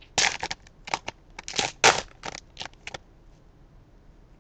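Trading card pack wrapper crinkling and crackling as it is torn open, in a quick run of sharp rustles for about three seconds, then quiet.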